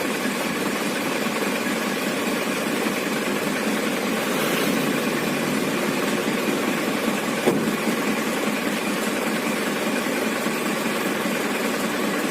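Isuzu Panther's four-cylinder diesel engine idling steadily, with a brief click about seven and a half seconds in.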